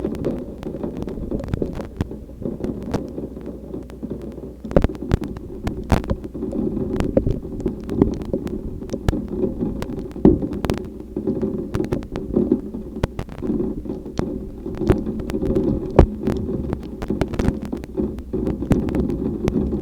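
Thunderstorm wind buffeting the microphone in a steady, throbbing rumble, with scattered sharp ticks throughout.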